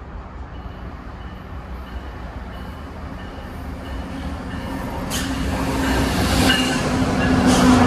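Train approaching, growing steadily louder, with a low steady engine-like tone and a few sharp clanks in the second half.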